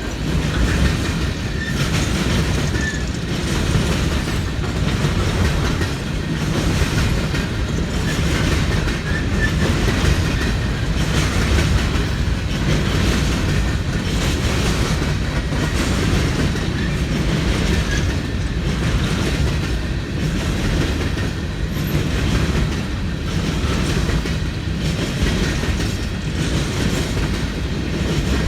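Freight train rolling past, its wheels clattering over the rail joints in a steady, regular rhythm.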